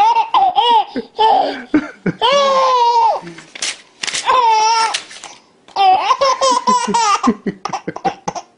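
A baby laughing hard in several loud, high-pitched bursts. Sheets of paper are torn about halfway through and again near the end, and each tearing sets off a fresh peal of laughter.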